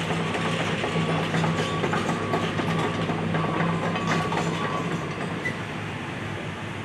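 Demolition excavator's diesel engine running with a steady drone, with scattered metal clanks and rattles. The drone and clanking ease off about five seconds in.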